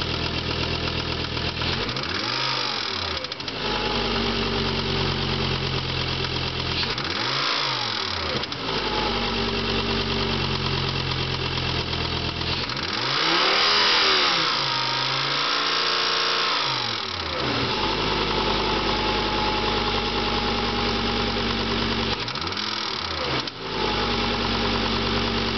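Volvo 850's five-cylinder engine idling with its serpentine belt off and a steady tick-tick-tick, blipped up in revs four times; the third rev is held longest and is the loudest. The ticking persisted after new lifters and valve stem seals, and turned out to be a shattered piston.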